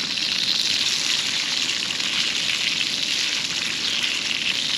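Fresh-caught fish frying in hot grease in a skillet, a steady high sizzle.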